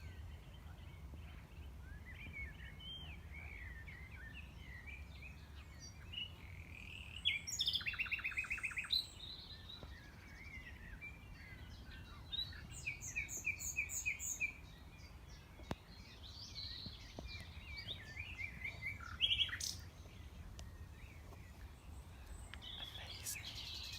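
Common nightingale singing at night: varied phrases with pauses between them, including a fast rattling trill about seven seconds in and a run of loud repeated notes around twelve to fourteen seconds, over a steady low background rumble.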